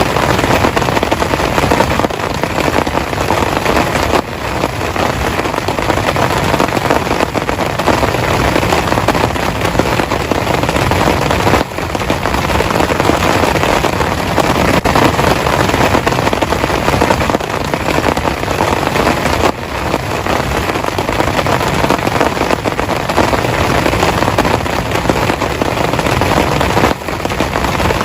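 Heavy rain falling steadily, a dense, even hiss of countless drops striking close by.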